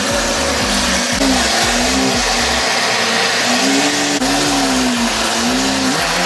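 Lamborghini Aventador's V12 engine revved repeatedly inside an enclosed car-transport trailer, its pitch rising and falling several times in short blips.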